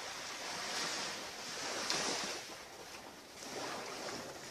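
Ocean surf washing onto the beach in swells, loudest about two seconds in, with another swell near the end.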